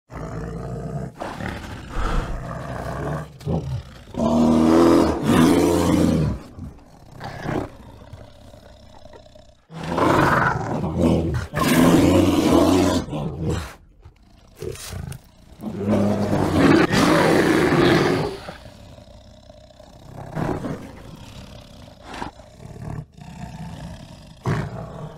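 A bear roaring and growling: three loud, throaty roars a few seconds apart, with lower rumbling growls between them.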